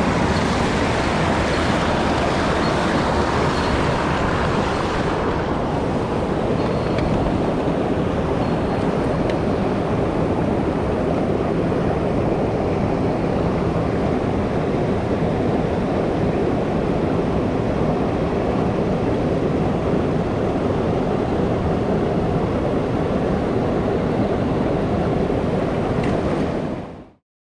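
Mountain stream water rushing steadily over rocks, a constant full noise that turns duller about five seconds in and fades out near the end.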